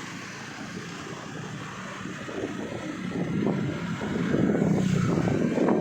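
Wind buffeting the microphone while riding in a moving vehicle, over the low hum of its engine, growing louder about four seconds in.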